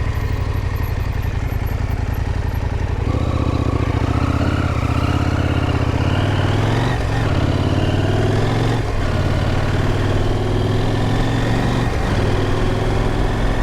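KTM adventure motorcycle's engine running under load while riding. About three seconds in, its pitch climbs as it accelerates, with brief throttle dips a few seconds later.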